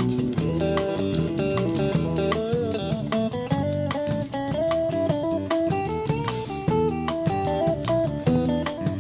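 Instrumental stretch of a blues-rock band recording: electric guitar playing a lead line over bass and hand percussion, with a steady beat.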